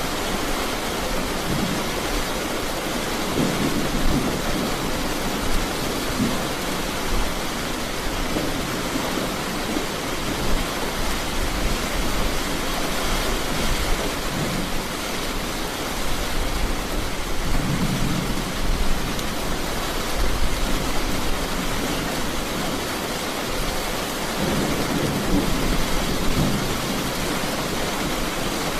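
Heavy rain falling in a steady hiss, with three low rumbles of thunder swelling up: one a few seconds in, one about midway and one near the end.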